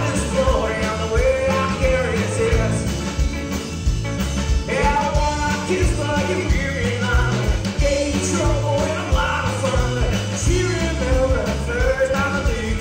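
Live rock band playing a song with a lead vocal over bass and drums.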